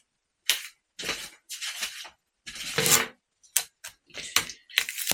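Small metal parts and tools handled on a workbench: a run of irregular clinks, taps and short scrapes, with several sharp clicks in quick succession near the end.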